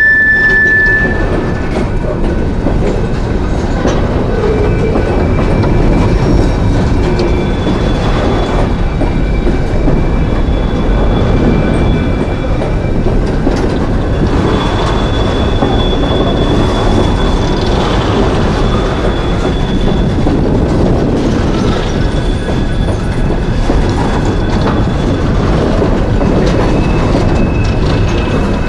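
Coal train's freight cars rolling past: a steady loud rumble of wheels on rail, with faint high wheel squeals coming and going.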